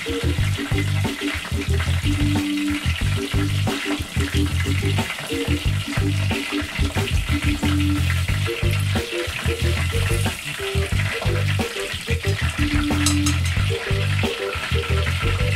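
Shrimp tempura sizzling steadily as it deep-fries in hot oil. A steady, rhythmic background music track plays underneath.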